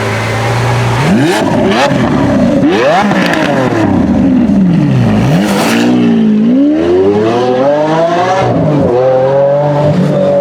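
Lamborghini Aventador V12 engine idling, then revved in quick blips up and down. It then climbs steadily through the revs under hard acceleration, drops sharply near the end and climbs again.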